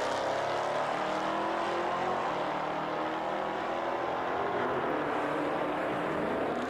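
Drag-race cars accelerating hard down the strip, engine pitch climbing steadily.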